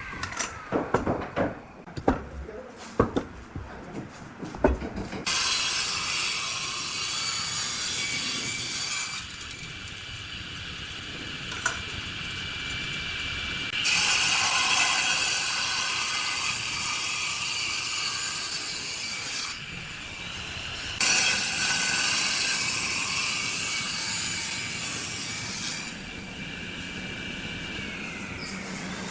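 Wood being worked by hand and machine: about five seconds of sharp knocks and taps, then a power tool cutting or sanding wood with a rough, hissy noise that comes in several bouts with short let-ups between them.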